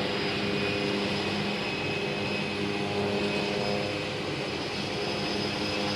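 Cessna Caravan floatplane's Pratt & Whitney PT6A turboprop running steadily, a high whine over the propeller's drone.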